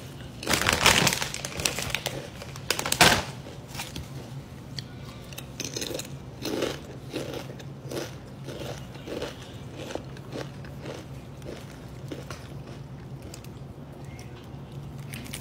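Close-up crunching of a jalapeño chip being bitten and chewed, loudest in the first three seconds, then quieter chewing.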